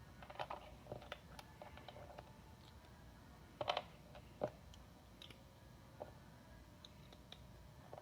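Scattered small clicks and taps of small parts being handled while a toy tow truck is assembled: a quick run of light clicks in the first two seconds, then a few louder single clacks, the loudest a little past a third of the way in.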